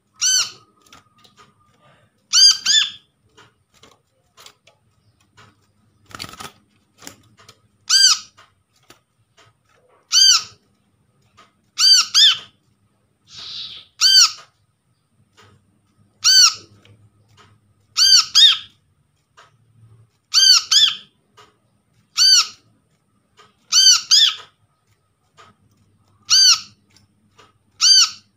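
Brown-throated sunbird (kolibri kelapa) calling: a short, sharp arched note repeated about every two seconds, now and then given as a quick double note. This is a lure call meant to get other kolibri kelapa singing.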